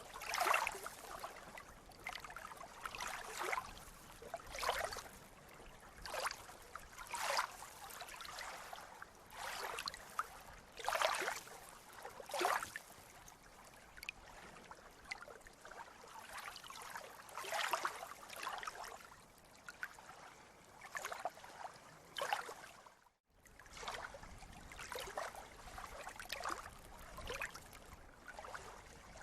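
Small sea waves lapping and splashing, in short irregular surges every second or two over a steady wash of water. The sound cuts out for an instant about two-thirds of the way through.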